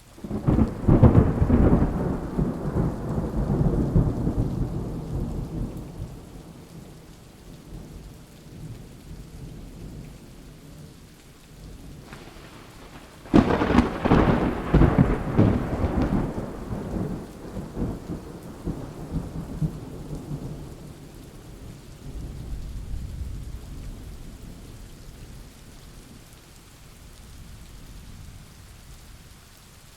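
Thunderstorm: steady rain with two loud thunderclaps, one at the very start and one about halfway through, each rolling away over several seconds. A fainter low rumble of thunder comes later.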